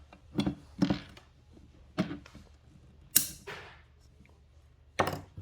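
Screwdriver being beaten against the edge of an oil seal in an ATV engine's clutch cover to work it loose: five sharp, unevenly spaced knocks, one near the middle louder with a short ring.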